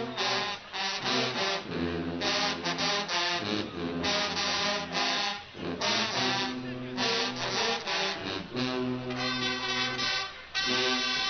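Guggenmusik carnival band playing: brass in short punchy rhythmic phrases, going into a long held chord near the end.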